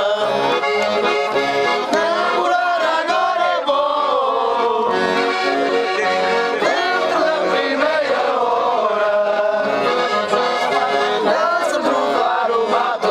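Accordion playing a lively traditional folk tune, a continuous melody over a steady chordal accompaniment.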